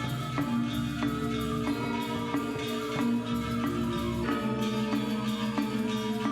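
Gamelan ensemble playing: bronze metallophones struck in a steady run of ringing notes over a sustained low gong hum.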